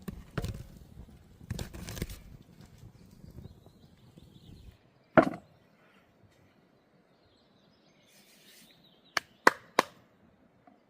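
Food-prep handling: rustling at the start, one sharp knock about five seconds in, then three quick sharp taps near the end.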